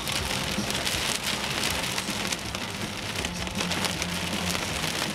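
Heavy rain pounding steadily on a vehicle, a dense patter of drops, with a low steady hum underneath.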